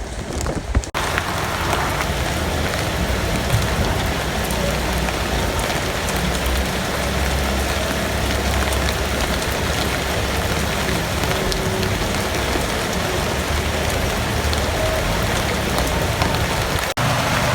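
Heavy rain pouring steadily onto surfaces, a dense even hiss that comes in abruptly about a second in, with a low rumble underneath.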